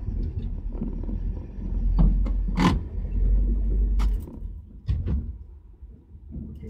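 The 1977 Camaro's 350 small-block V8 idling, heard from inside the cabin as a deep, steady rumble that drops away a little past halfway, with a few short clicks and knocks along the way.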